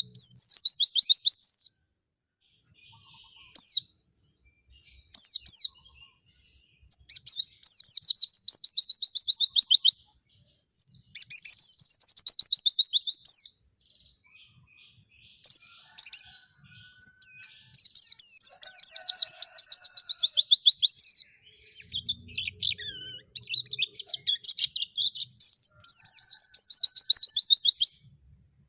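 White-eye (pleci) singing: fast trilled phrases of rapid high notes, each lasting a couple of seconds, repeated after short pauses filled with softer chattering.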